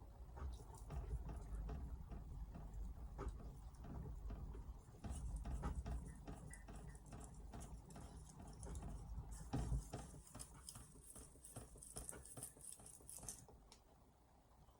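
Hatsukokoro carbon-steel knife being stroked back and forth on a wet 5000-grit Altstone RIN whetstone: a run of faint, quick scraping strokes that die away near the end.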